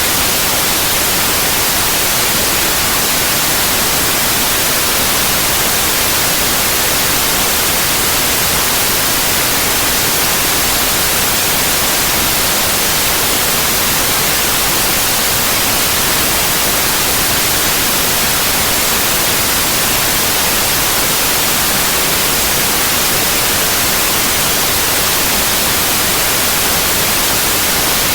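Synthetic white noise: a loud, steady, even hiss across the whole range, brightest in the highs, with no change or interruption.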